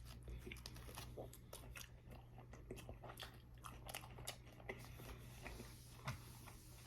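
Faint chewing of a mouthful of bacon cheeseburger (a Wendy's Baconator): many soft, irregular mouth clicks and smacks.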